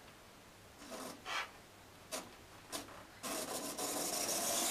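Märklin mini-club Z gauge model locomotive starting up about three seconds in, its tiny motor and wheels giving a steady rasping whir along the track. Before that, a few brief rubbing sounds.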